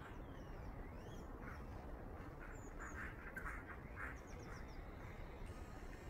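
Birds calling: thin chirps and short whistled glides throughout, with a run of short calls in quick succession from about a second and a half to four seconds in, over a steady low background hum.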